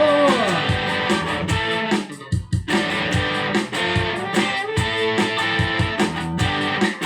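Instrumental break of a rock song: electric guitar playing over a steady beat, with a brief pause about two seconds in before the band comes back in.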